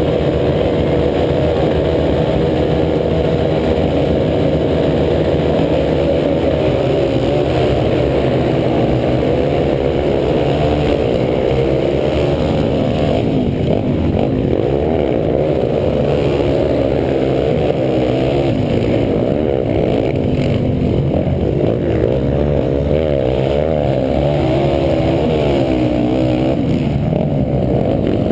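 A pack of motocross motorcycles running and revving together, loud, with many engine notes rising and falling over one another.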